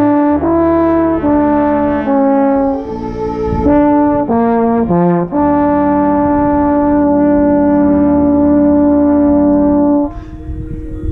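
Marching band brass, led by a baritone horn played close by, playing loud sustained chords. A string of held chords changes about once a second, then one long chord is held for about five seconds and cuts off sharply near the end.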